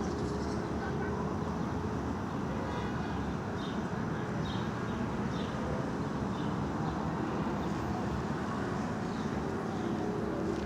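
Steady outdoor background rumble, such as distant traffic, with a few faint short high chirps in the middle.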